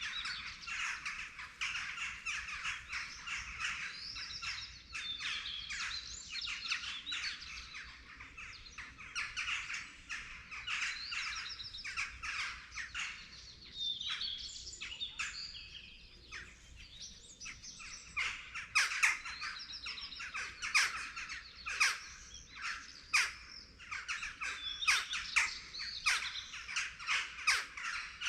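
Dawn chorus of several songbirds: dense, overlapping chirping and quick trills. From about two-thirds of the way in, short, sharp, louder calls stand out above the chorus.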